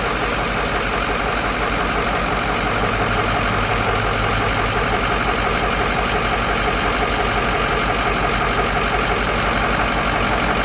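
Ford 6.0 Powerstroke V8 turbodiesel idling steadily with an even, regular pulse.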